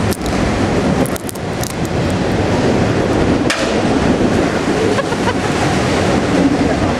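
Union Pacific autorack freight train rolling past: a steady rumble of the cars' wheels on the rails, with a few sharp clicks.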